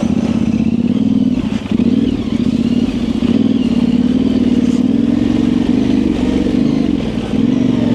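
Motorcycle engine running steadily at low throttle, its pitch wavering slightly with small throttle changes.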